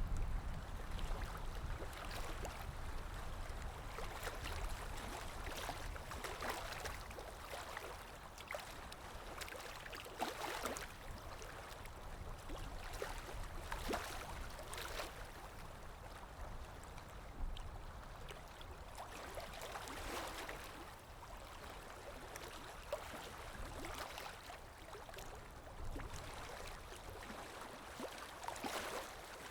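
Underwater ambience: a steady low rumble of moving water with irregular bubbling and gurgling.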